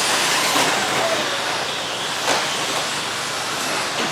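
A pack of 1/10-scale electric RC stadium trucks racing on a dirt track, giving a steady hissing rush of motors, drivetrains and tyres, with a couple of light knocks.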